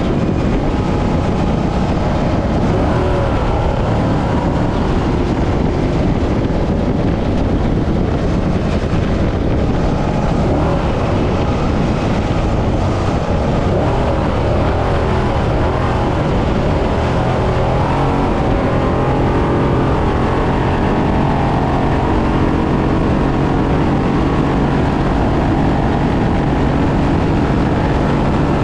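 Brenthel Class 6100 trophy truck driven hard over desert terrain: a steady, loud mix of engine and driving noise, with the engine pitch rising and falling as the throttle changes through corners and bumps. The engine holds a steadier pitch near the end.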